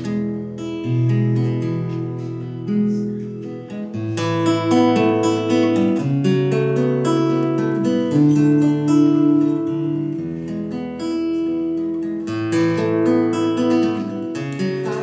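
Acoustic guitar playing a slow instrumental passage, plucked and strummed chords with the bass note changing every second or two.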